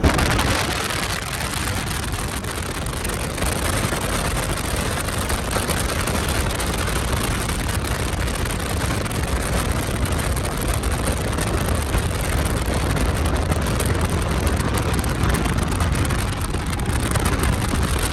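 Freshly built drag-boat engine running under way while it is being broken in with heat cycles, heard under a steady rush of wind and water noise.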